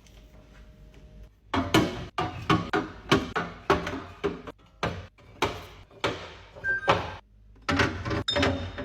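Plastic and glass containers being handled and set down while stocking a fridge: a quick series of sharp clacks and knocks, starting after a quiet second and a half, with a short pause near the end.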